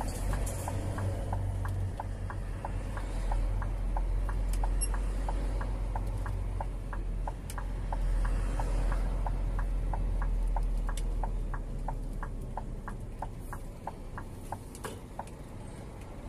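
Scania G410 truck's diesel engine running with a steady low hum, and a light ticking at about three clicks a second throughout.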